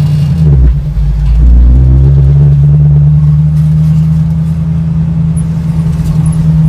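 1965 Ford Mustang on the road, engine running with a steady low drone. Its pitch rises briefly about a second and a half in as the car accelerates, then holds.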